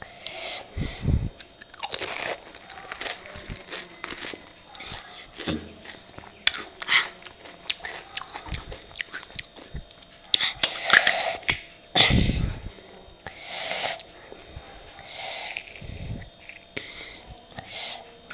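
A person biting into and chewing pani puri, with crisp puri shells crunching and wet chewing in irregular bursts.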